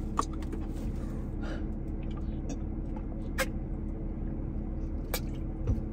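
Steady low hum of a car idling, heard inside the cabin, with a few faint clicks scattered through it.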